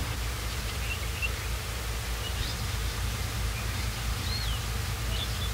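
Outdoor rural ambience: scattered faint bird chirps, one of them a short rising-and-falling call about four seconds in, over a steady low rumble.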